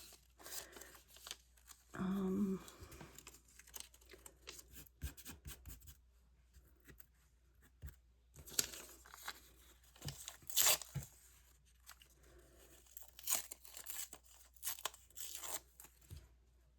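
Paper being torn and handled, rustling and ripping in short irregular strokes, with the sharpest rip about two-thirds of the way in.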